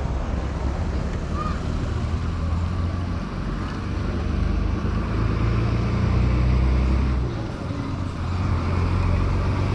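Road traffic: a motor vehicle's engine running with a low, steady hum over road noise.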